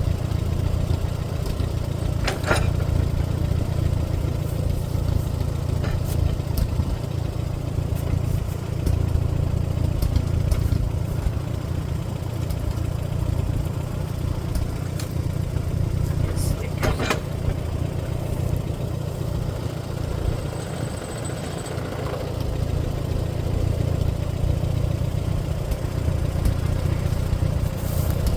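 Allis-Chalmers WD-45 tractor engine running steadily at low speed, with a couple of brief sharp knocks, one a few seconds in and one about halfway through.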